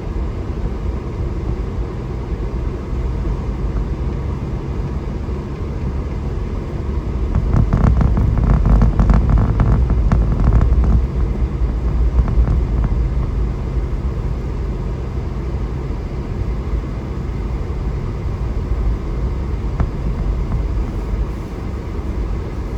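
Vehicle driving on a snow-covered road, heard from inside the cab: a steady low rumble of engine and tyres. About a third of the way in it grows louder with a rough crackle for a few seconds, then settles back.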